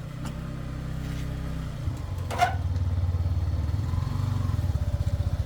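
Small motorcycle engine running at low speed, its note changing about two seconds in and settling into an even, rapid putter from about four seconds in. A single sharp click about two and a half seconds in.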